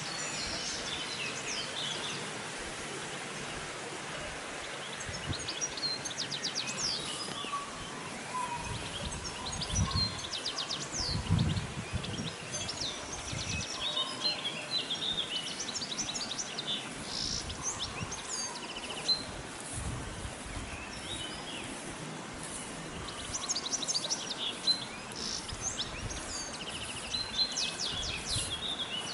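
Several songbirds singing and calling, with many short chirps and a few quick trills, over a steady background hiss. A few low thumps come through around the middle.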